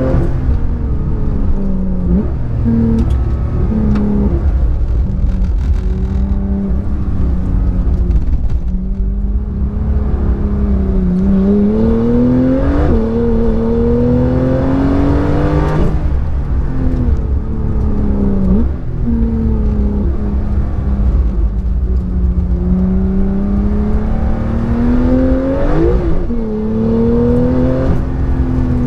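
Car engine heard from inside the cabin, driven hard: its pitch climbs again and again, drops abruptly at gear changes and falls away when the driver lifts off for corners and braking. A steady low rumble of road and tyre noise on the wet tarmac runs underneath.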